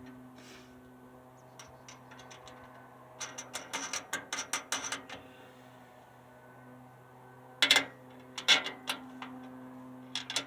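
Runs of quick metallic clicks from hand-assembling a wheelbarrow's bolts, nuts and brackets: a stretch of clicking about three seconds in, a sharp clack near eight seconds and more clicking just after, over a faint steady hum.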